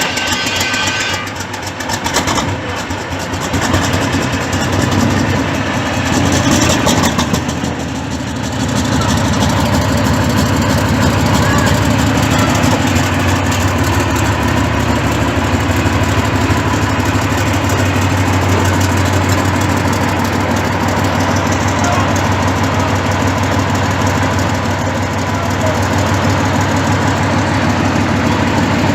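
A large tank engine on a cold start, running unevenly for the first eight seconds or so and then settling into a steady, deep idle.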